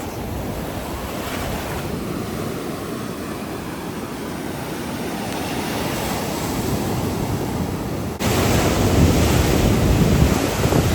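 Ocean surf washing onto a beach, with wind buffeting the microphone. The noise gets suddenly louder about eight seconds in.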